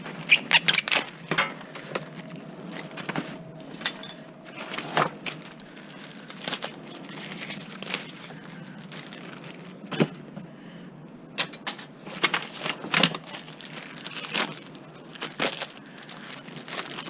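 Hardware and junk being handled and sorted: irregular knocks and clatter of objects being picked up and set down, with rustling and crinkling between them.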